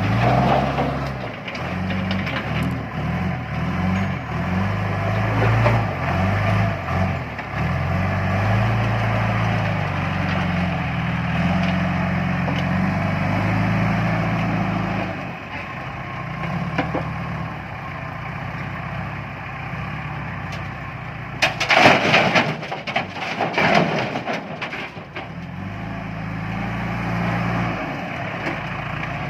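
John Deere 310E backhoe loader's diesel engine working, its revs rising and falling as the loader digs and lifts. About three quarters of the way through, a few seconds of loud clattering crashes as a load of rocks is dumped.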